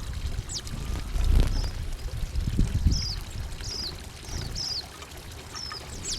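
Small songbirds at a feeder giving several short, high chirps, some sliding down in pitch. Under them runs an uneven low rumble of background noise.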